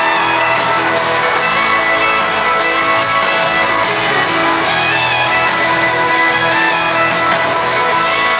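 Live country band playing an instrumental break between verses, with guitars strumming and playing over bass and drums, recorded loud from the concert crowd.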